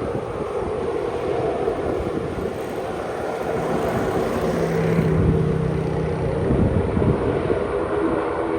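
Aircraft engines running, a steady loud rumble with droning tones in it.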